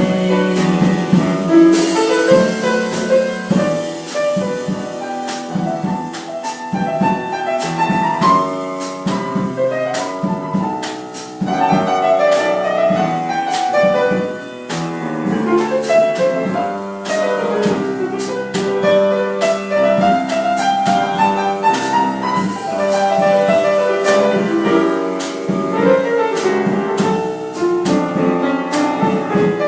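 Jazz piano solo with a drum kit keeping a light, steady beat, in an instrumental break of a live piano–drums–vocal trio.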